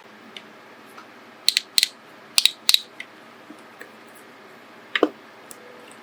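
Small hard objects clicking and tapping as they are handled during nail-art work: a few sharp clicks in quick pairs, then a duller knock near the end.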